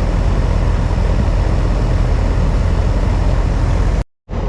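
Outdoor air-conditioning condensing unit running: a steady rush of air from the condenser fan over a low compressor hum. The sound cuts out for a moment near the end.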